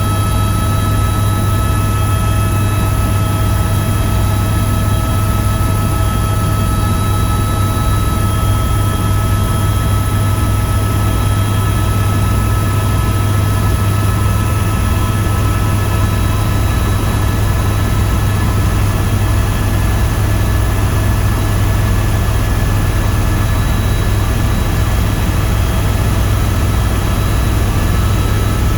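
Tour helicopter in flight: steady, loud turbine and rotor noise with a deep hum and a few constant whining tones, unchanging throughout.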